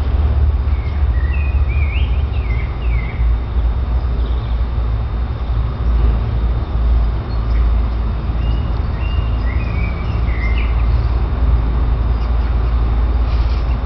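A bird chirping in short sliding phrases, twice: about a second in and again past eight seconds, over a loud, steady low rumble.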